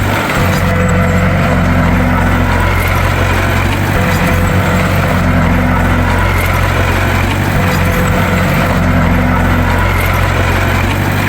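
Bulldozer's diesel engine running steadily, with a slightly higher tone coming and going about every three to four seconds.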